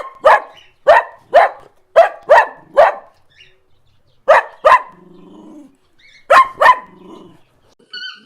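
Dog barking: a rapid run of about seven sharp barks, then two quick pairs of barks after short pauses.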